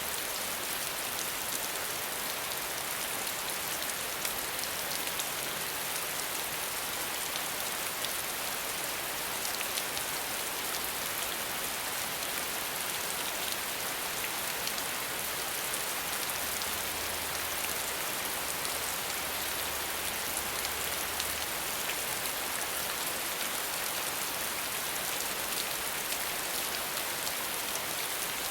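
Steady rain falling, a continuous hiss dotted with the small ticks of individual drops, with no thunder.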